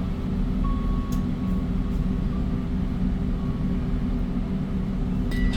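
Hyundai Green City city bus's 240 PS CNG engine running steadily under way, heard inside the cabin as an even low drone.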